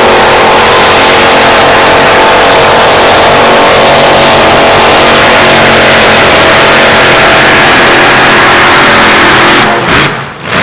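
Pulling truck's engine running flat out at full throttle during a pull, loud and steady, then cutting off suddenly near the end.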